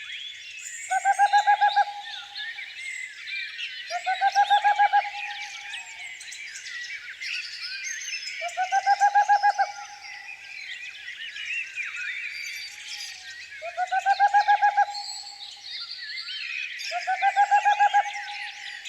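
Many small wild songbirds chirping and singing over one another. A lower, rapidly pulsed trilling call about a second long cuts through five times, every three to five seconds, and is the loudest sound.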